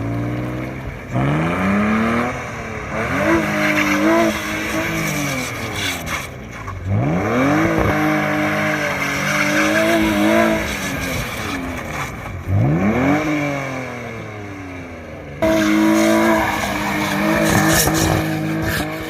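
Car engine driven hard, its revs sweeping up, wavering and dropping abruptly several times, with tires squealing under it.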